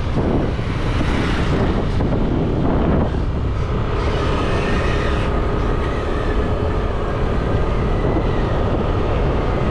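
Motorbike engine running while riding at speed, with wind rushing over the microphone; a steady whine sets in about three and a half seconds in and holds.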